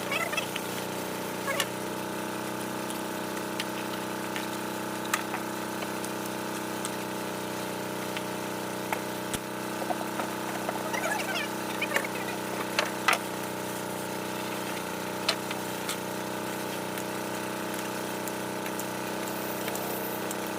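Steady hum of a running electric motor, with scattered sharp taps and clicks from work on the wood.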